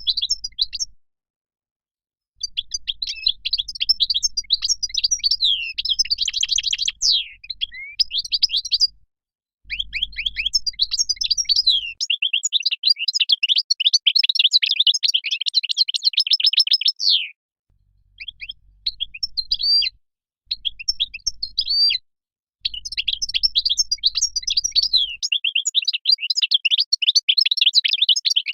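European goldfinch singing: long phrases of fast, liquid twittering and trills, broken by a few short pauses.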